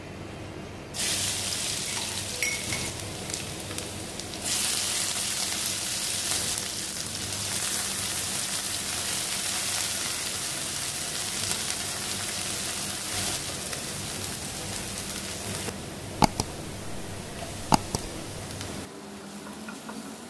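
Garlic and chopped chives sizzling in hot oil in a wok while a wooden spatula stirs them. The sizzle jumps up about a second in and stays steady. Near the end come two sharp knocks.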